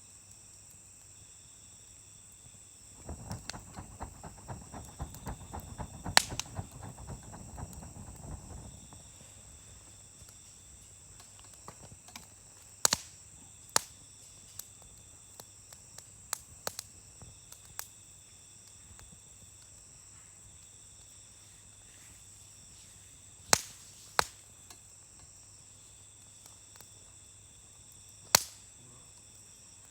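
Campfire crackling, with sharp wood pops scattered throughout and a denser run of crackling from about three to nine seconds in, over steady chirring of crickets.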